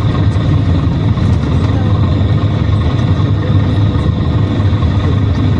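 Steady drone of a PAZ-422320-04 Citymax 9 city bus under way, heard from inside the passenger cabin: a low engine and road rumble that holds even throughout.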